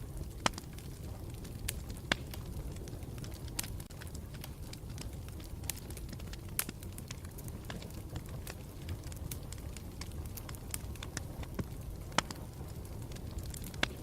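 Wood campfire burning with a steady low rumble and irregular sharp crackles and pops, a few of them louder.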